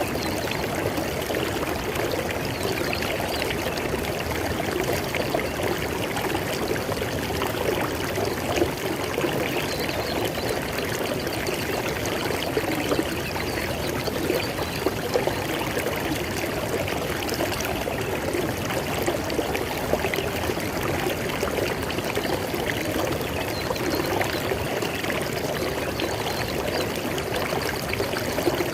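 River water flowing and splashing over stones, a steady, unbroken rush.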